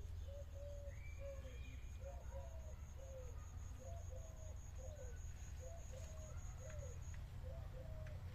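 Birds calling in short, repeated low notes, with a fast, even high-pitched pulsing that stops near the end and a steady low rumble beneath.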